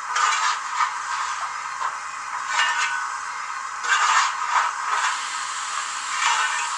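Sampled steam-locomotive sound from a model's Zimo sound decoder with a Youchoos steam sound project, played through a small speaker in the coal bunker. It is a thin, hissing sound with no low end, surging in uneven steam bursts every second or so.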